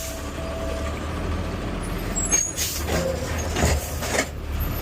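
Garbage truck's diesel engine running, with a steady whine in the first second and several short air hisses from about two seconds in to near the end.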